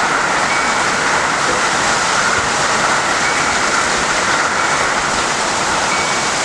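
Heavy rain falling steadily, a loud even hiss with no break.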